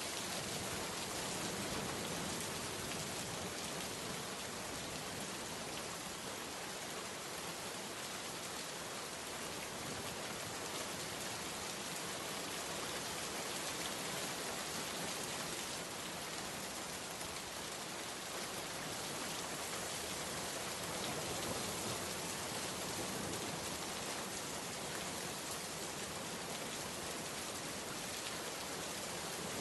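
Heavy, steady rain falling on surfaces, an even hiss of countless drops with no let-up.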